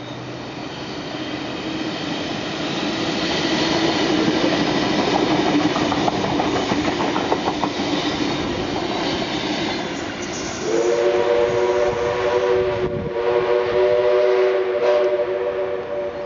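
A double-deck electric intercity train passes at speed: a rushing roar builds and peaks midway, with wheels clicking over rail joints. About ten seconds in, a train sounds a long chord of several notes at once for around five seconds, with a brief break in the middle.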